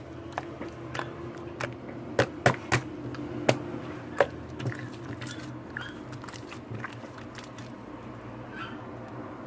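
Irregular sharp clicks and taps, several close together in the first few seconds and sparser later, over a steady low hum.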